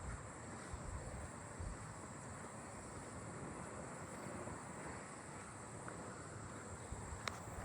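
Steady high-pitched drone of singing insects in a grass field, with a low rumble of wind on the microphone underneath and a sharp click near the end.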